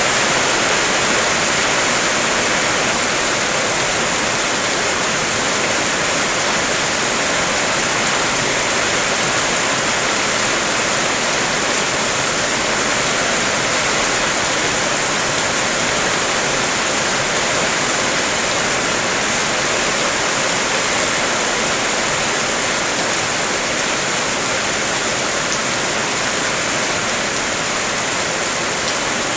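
Heavy rain falling: a steady, even hiss with no separate drops standing out.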